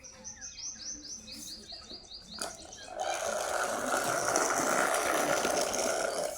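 Remote-controlled toy tractor running: its small electric motor and gears whir loudly and steadily for about three seconds, starting and stopping abruptly. Before it, a quick run of high chirps, about six a second, for about two seconds.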